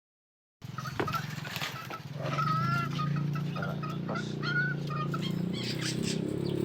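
Caged songbirds chirping and calling in short, repeated notes over a low steady hum.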